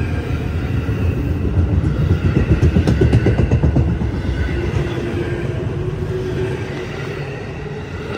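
Electric commuter train pulling out of the station past the platform: wheels clattering over the rail joints, loudest about two to four seconds in, then fading as the cars move away.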